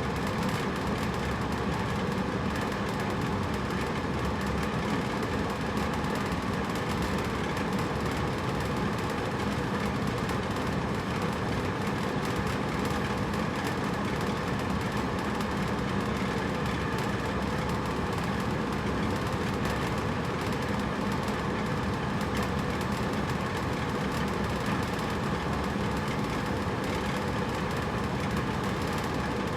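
Hotel room air conditioner running steadily: an even mechanical hum with a fan's whoosh, unchanging throughout.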